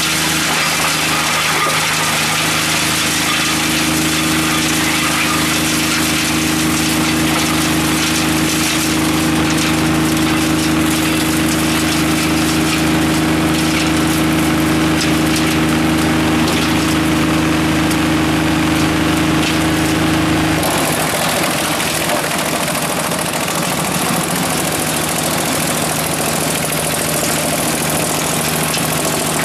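Teknamotor Skorpion 280 SDBG drum wood chipper running, its three-cylinder diesel engine and cutting drum making a loud, steady hum. About twenty seconds in, the sound changes abruptly: the steady hum drops away and a rougher, noisier running takes over.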